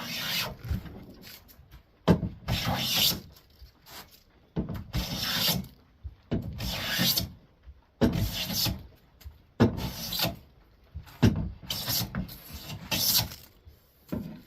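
Hand plane taking shavings along the edge of a board: about seven separate strokes, each a second or so of wood rasping, with short pauses between. The edge is being trued flat and square for an edge joint, taking down a high corner.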